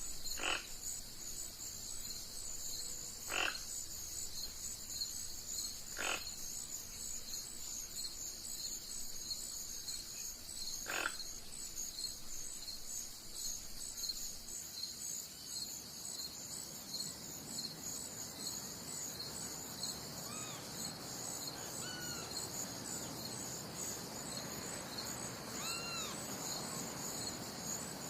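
Steady chorus of insects, a high pulsing trill throughout. Four brief sharp calls break in during the first third, and short rising-and-falling chirps from another animal come several times in the last third.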